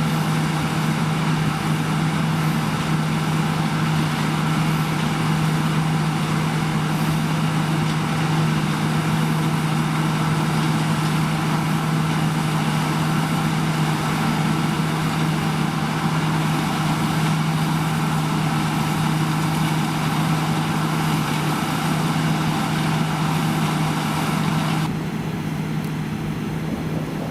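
Harvest machinery running steadily, with an even low engine hum under a broad mechanical noise. Near the end the higher noise drops away abruptly and the sound turns duller.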